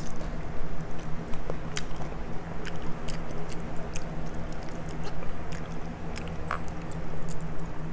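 Close-up mouth sounds of a person eating: wet chewing, lip smacks and small clicks as he gnaws on a boiled chicken foot, over a steady low hum.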